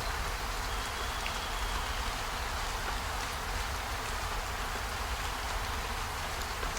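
Steady rain: an even hiss with a low rumble underneath and a few faint scattered ticks.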